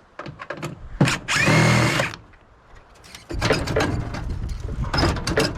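Cordless drill spinning in a short burst, under a second long, to back out screws from a microwave casing. Before and after it come sharp metallic knocks of sheet-metal parts being handled, and a low rumble from about halfway through.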